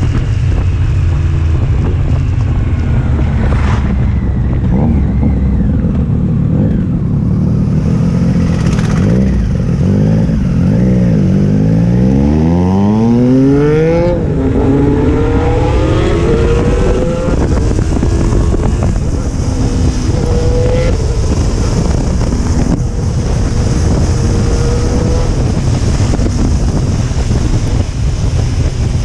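Sport motorcycle exhaust at speed, the engine note climbing steeply under hard acceleration about halfway through, dropping sharply at a gear change and climbing again, then settling to a steadier note. Wind rushes over the microphone throughout.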